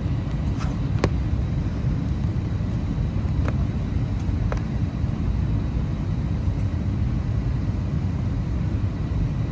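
Steady low cabin rumble inside an Airbus A320 on the ground before takeoff, with a few sharp clicks about one, three and a half, and four and a half seconds in.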